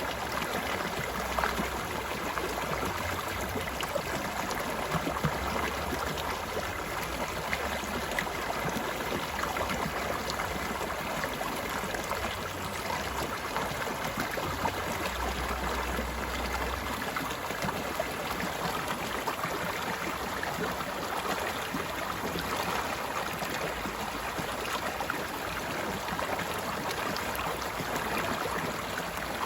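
A stream flowing and babbling steadily, an even rush of water with fine splashing and gurgling.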